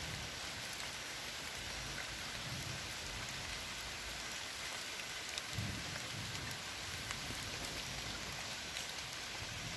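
Rain falling on a river's surface: a steady, even hiss of drops with faint scattered ticks of single drops.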